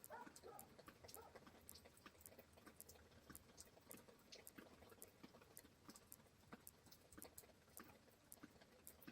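Faint rain, with single drops ticking irregularly, several a second, over a low steady hum.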